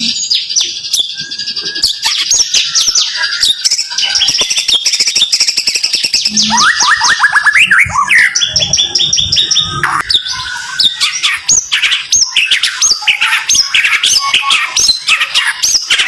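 White-rumped shama (murai batu) singing fast, tightly packed volleys of repeated high sweeping notes, the rapid 'tembakan' bursts prized in a murai's song.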